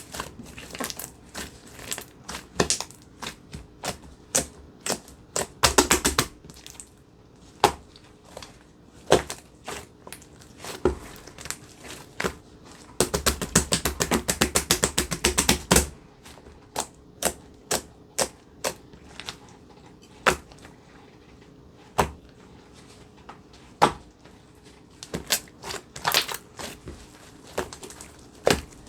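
Handmade slime being squeezed and poked, giving sharp crackles and pops of trapped air bubbles at irregular intervals, with a long run of rapid crackling about halfway through.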